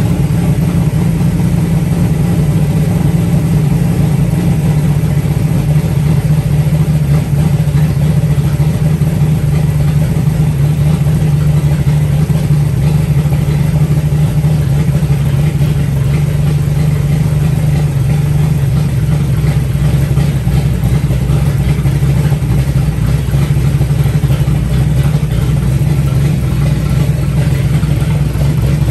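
Freshly built 360 cubic-inch stroker V8 running steadily on its first start-up, holding an even speed with no revs.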